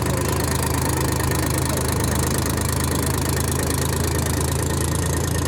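Tractor engine idling steadily, a low, even hum.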